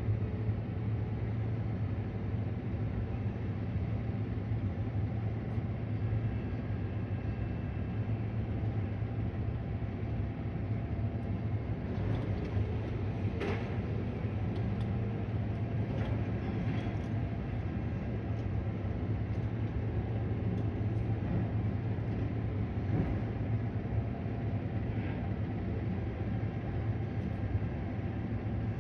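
Garbage truck engine running steadily with a low rumble, with a few short knocks around the middle.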